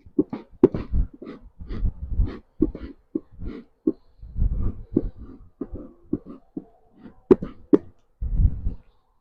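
Wooden beehive parts knocked and tapped in a quick, irregular series of sharp knocks, some with a dull thump, as live bees are knocked off.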